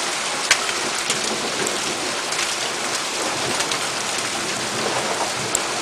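Heavy rain mixed with hail pouring down, a steady hiss broken by a few sharp ticks of hailstones striking.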